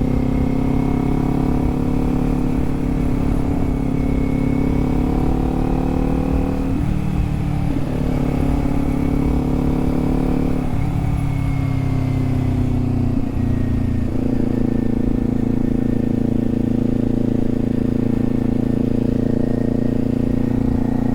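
Kawasaki Z400 parallel-twin engine running as the motorcycle cruises. The engine note shifts a few times, about 7, 11 and 14 seconds in, with changes in throttle or gear.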